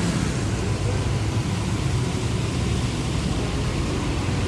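Bus engine running with a low steady rumble, under an even hiss of tyres on a wet road.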